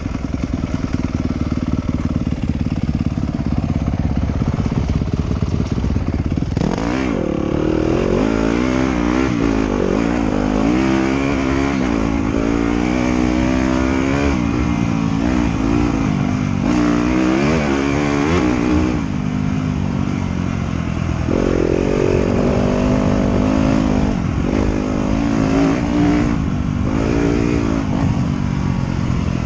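Trail motorcycle engine riding a dirt trail, revving up and falling back over and over as the throttle opens and closes, over a steady low drone.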